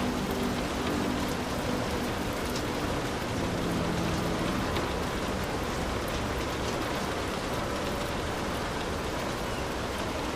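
Heavy rain falling steadily on a hut, a dense even hiss with scattered sharper drop hits.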